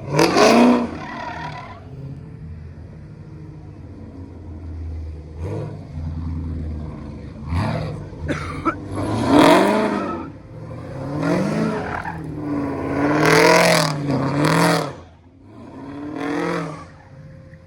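A car engine revved hard in a series of about five bursts, its pitch climbing and dropping back to idle between them. The loudest revs come right at the start and in the middle of the run.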